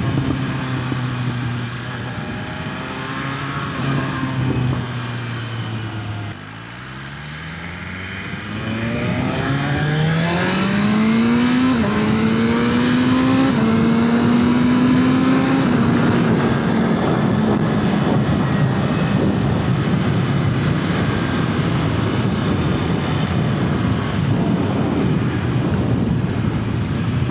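BMW S1000RR inline-four engine on its stock, catalysed exhaust, heard through a helmet microphone with wind rush. It cruises steadily, eases off about six seconds in, then pulls hard, rising in pitch with two quick upshifts, and settles into a steady cruise.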